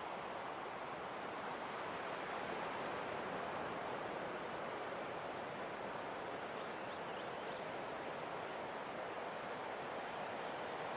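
Steady hiss of ocean water, an even wash with no separate wave breaks.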